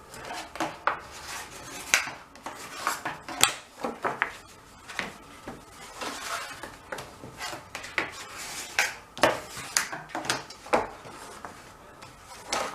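Thick card being folded and creased by hand along scored lines: irregular sharp crackles and taps with short rubbing strokes as the folds are pressed flat.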